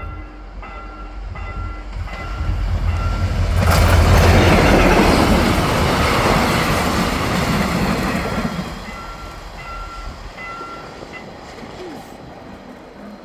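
Level-crossing warning bell dinging over and over, a bit under twice a second, while a Mugunghwa-ho passenger train passes close by; the rush of the train builds from about two seconds in, is loudest around four seconds and fades by about nine, leaving the bell dinging on its own.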